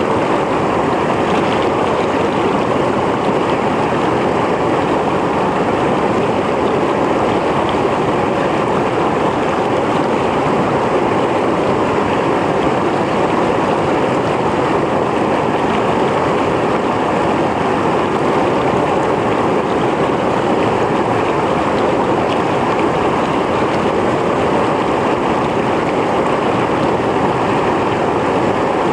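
Mountain stream flowing over rocks: steady, unbroken rushing water.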